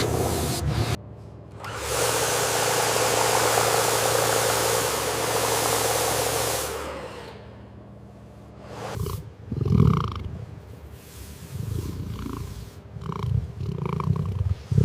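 Water spraying with a steady hiss for several seconds, fading out. Then a lion growls low and unevenly in short bursts.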